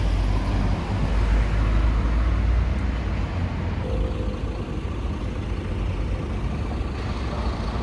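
Road traffic going by: a steady rumble of passing vehicles' engines and tyres, a little louder in the first few seconds and then easing. The road is a very noisy one.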